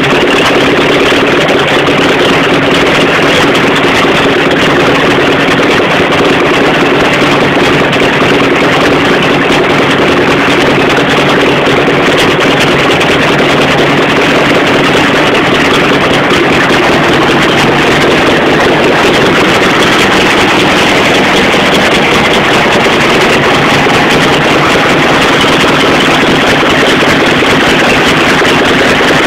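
Air-cooled Volkswagen camper flat-four engine idling steadily while test-run out of the van.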